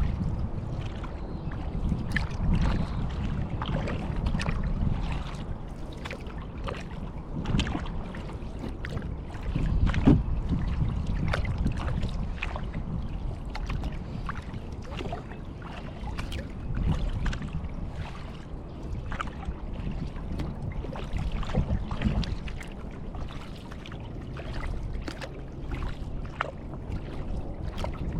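Kayak paddling: the paddle blades dip and splash in the water, with water dripping and trickling between strokes. The strokes swell every couple of seconds over a steady low rumble.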